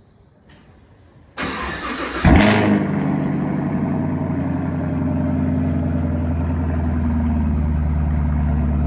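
Chevrolet Camaro LT1 V8 cold-starting through an MBRP axle-back exhaust. The starter cranks for about a second, the engine catches with a loud flare of revs a little over two seconds in, then settles into a steady idle.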